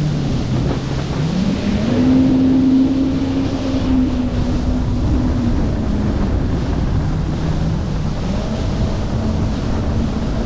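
Jet ski engine running under way, its pitch rising about a second in, easing off around the middle and picking up again near the end, under heavy wind noise on the microphone and rushing water.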